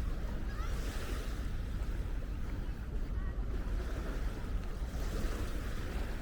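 Wind rumbling steadily on the microphone over the wash of small waves on a sandy beach.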